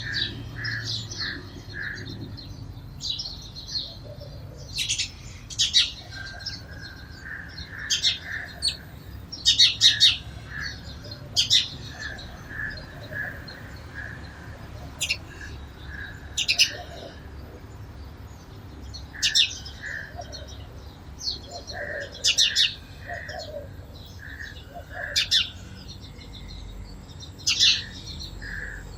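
Sparrows chirping: short, sharp, high chirps every second or two, over softer, lower bird calls repeated in short runs.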